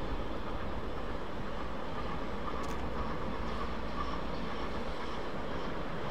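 Train running on the rails, a steady rumble with no clear beat.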